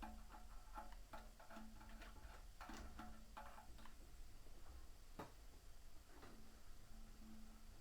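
Faint, irregular light clicks and taps, many close together in the first few seconds and a single sharper click about five seconds in, over a low steady hum.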